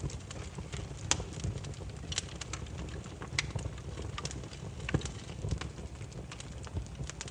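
Wood fire burning with a steady low rumble and irregular sharp crackles and pops of burning firewood, louder snaps about a second in and near five seconds.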